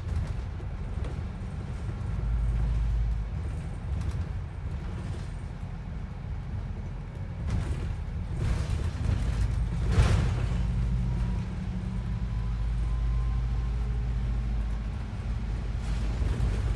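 Steady low engine and road rumble inside a moving London bus, with a sharp knock about ten seconds in.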